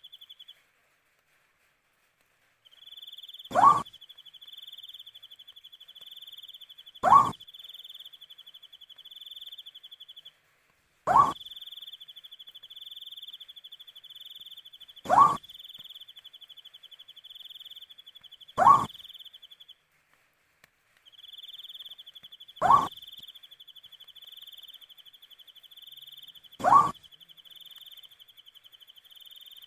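An owl giving a short call seven times, roughly every four seconds. Under it a cricket trills steadily, dropping out briefly a few times.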